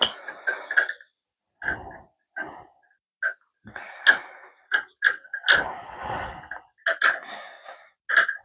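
Small metal tools and parts being handled on a workbench: irregular clicks, clinks and short scrapes, some with a brief metallic ring, coming in quick clusters with short pauses between.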